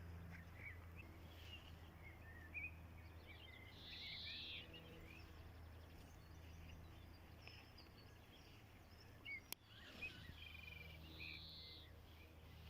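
Faint birdsong, with scattered short chirps and trills, over a low steady hum. A single sharp click sounds about nine and a half seconds in.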